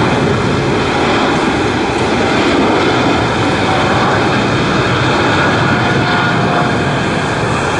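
Boeing 747-8's four GEnx turbofan engines at takeoff thrust, a loud steady jet noise with no break.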